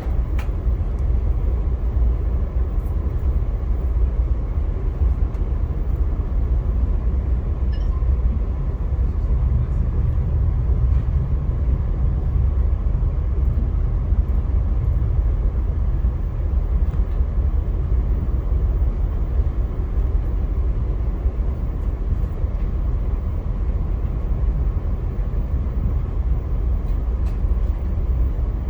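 Steady low rumble of a Via Rail passenger train running along the track, heard from on board.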